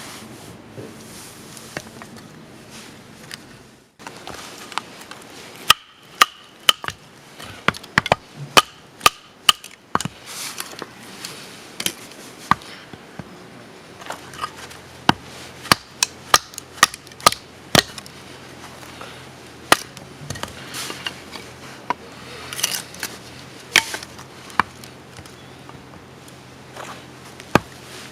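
Repeated sharp knocks, irregular at about one or two a second, starting about six seconds in, with a few short pauses.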